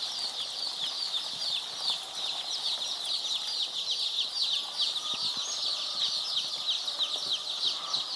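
A large flock of day-old layer chicks peeping without pause. Many short, high chirps, each falling in pitch, overlap into a dense chorus.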